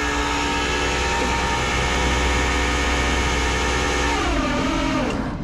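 Tow truck's engine running at a steady raised speed, a constant hum. About four seconds in the pitch drops, and the sound cuts off just before the end.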